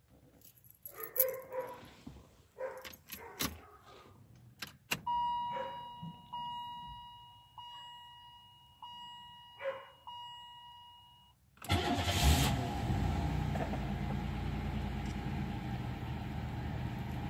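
1992 Buick Regal cold start after sitting unused for a long time. First come clicks and knocks, then a repeating dashboard warning chime for about six seconds. About twelve seconds in, the engine cranks, catches and settles into a steady idle.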